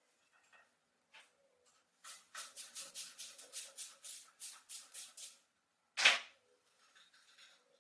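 A quick run of short scraping strokes, about five a second for some three seconds, then one louder stroke about six seconds in.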